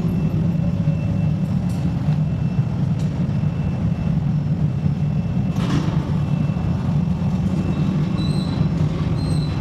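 Wire-factory machinery running with a steady low hum, with a short sharper noise about six seconds in.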